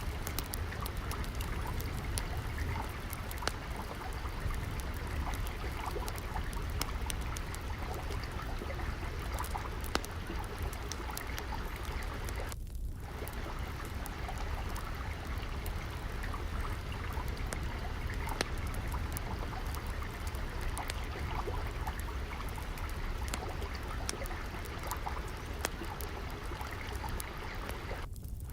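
Ambience mix of steadily flowing, trickling water under a crackling wood fire, its small sharp pops scattered irregularly throughout, over a low rumble. The water and crackle dip out for a moment about halfway through.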